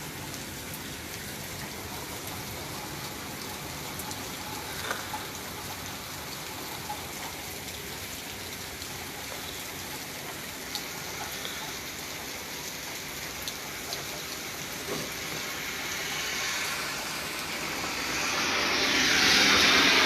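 Steady rain falling, with scattered small drips. Near the end a loud rushing hiss swells up and becomes the loudest sound.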